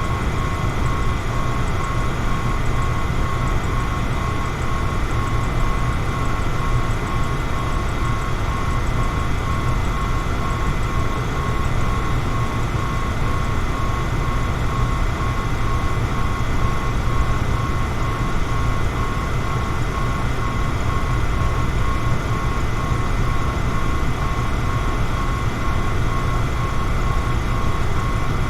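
Electric fan running steadily: a constant rush of moving air over a strong low hum, with a thin steady whine on top.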